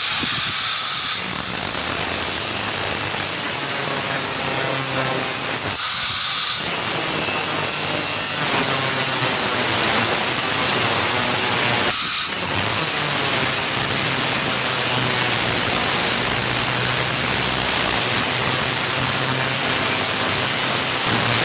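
Power cutting tool, likely an angle grinder, cutting into the steel exhaust silencer of a Hero Pleasure Plus BS6 scooter to open it up. It makes a loud, steady grinding hiss, with short breaks about six and twelve seconds in.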